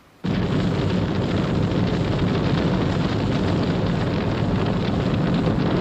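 Sound effect of a large building fire burning: a loud, steady rushing noise that starts abruptly and cuts off abruptly.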